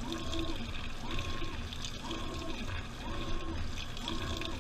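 Washing machine in its wash cycle, heard from inside the drum: water sloshing, with the motor's whine rising, holding and falling in a regular beat about once every second and a bit.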